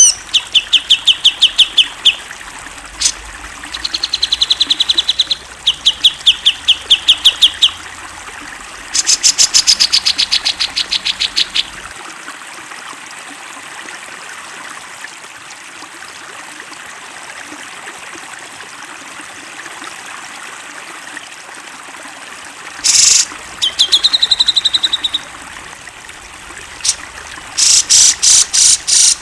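Cucak jenggot (grey-cheeked bulbul) singing: bursts of rapid, evenly repeated high notes, each burst lasting about two seconds, with a long pause in the middle before the song resumes.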